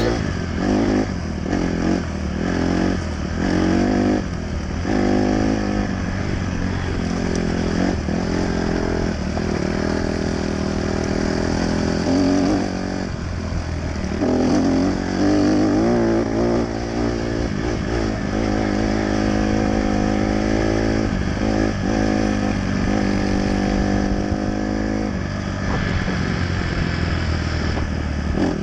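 Dirt bike engine being ridden, revving up and down with the throttle. The pitch climbs and drops off many times, with a couple of longer lulls where the throttle comes off.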